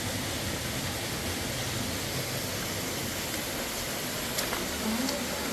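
Steady rushing of a fast mountain river, with a single sharp click about four seconds in.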